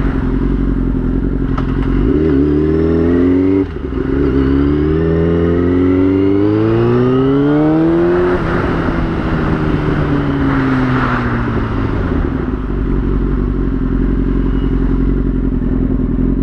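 Yamaha YZF-R6 inline-four engine accelerating hard: the pitch climbs, drops briefly at an upshift about three and a half seconds in, then climbs for a long pull. It then falls away as the throttle is closed and settles to a steady cruise note.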